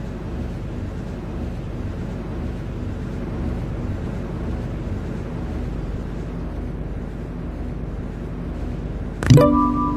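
Steady low rumble of an MTR Tseung Kwan O line C-Train car heard from inside. Near the end a loud electronic chime sounds, a few held tones that ring on and fade.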